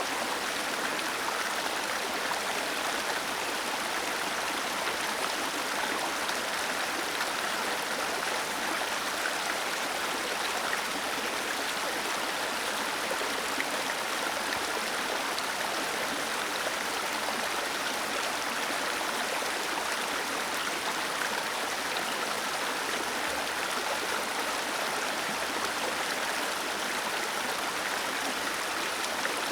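Small waterfall: water cascading and splashing in a steady, even rush.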